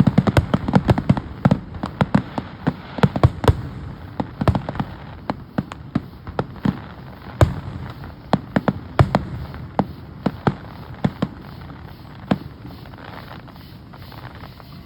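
Fireworks going off in a rapid string of sharp pops and bangs, several a second at first, then thinning to scattered bangs, the last about twelve seconds in.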